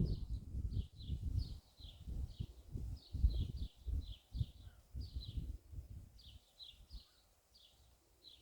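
A bird chirping short, high, falling notes about twice a second, over gusts of wind buffeting the microphone that die away near the end.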